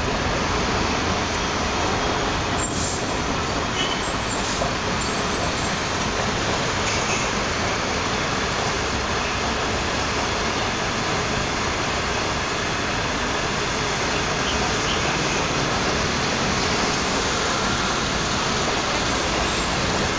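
CRH1E electric multiple unit running past on the tracks: a steady rolling noise at an even level, with no distinct wheel clicks.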